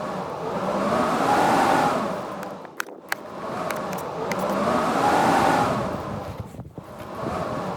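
Blizzard wind gusting in repeated swells, a howling tone rising and falling with each gust about every four seconds, with a few sharp ticks in the lulls between gusts.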